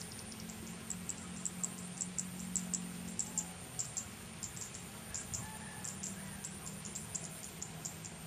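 Small birds chirping: a quick, uneven run of short, high chirps, several a second, over a low steady hum that drops out in the middle and returns.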